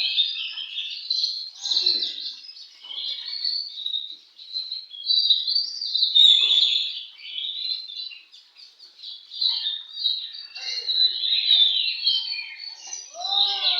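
Oriental magpie-robins (kacer) singing in a dense stream of overlapping song phrases. Several birds are at it at once, with no pause.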